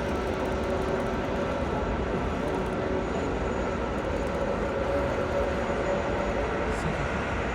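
Jet airliner engines running, a steady broad rumble with faint steady whining tones.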